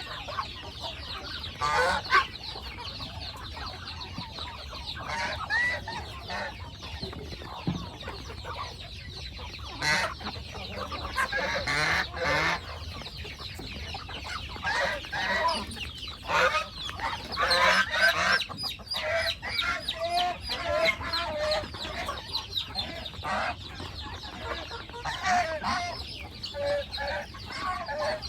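A flock of chickens clucking, with many short calls overlapping one another throughout.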